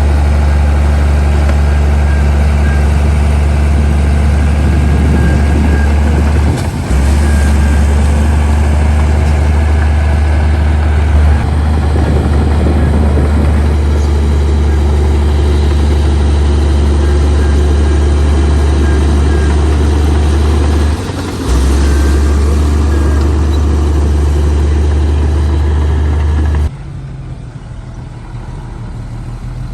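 Komatsu D58P bulldozer's diesel engine running steadily with a heavy low drone and a rattle of machinery over it, dipping briefly twice. Near the end the drone cuts off abruptly, leaving a quieter engine sound.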